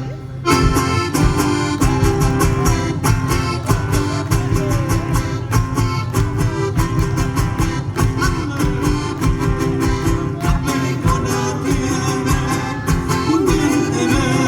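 Live folk music: accordion and guitar playing over a brisk, steady beat. The music breaks off briefly at the start and comes back in about half a second later.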